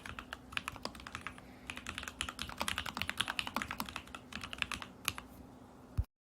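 Fast, irregular typing on an Alice-layout mechanical keyboard: lubed and filmed Lavender switches under Whale polycaps, in a stacked acrylic case with a tape-modded Lumos PCB. It ends about six seconds in with a low thump and cuts off suddenly.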